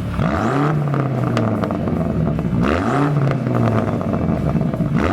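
Car engine revving through a Ragazzon stainless-steel sports exhaust silencer, demonstrating its exhaust note. The pitch climbs quickly and then falls away slowly twice, with a third rise starting at the very end.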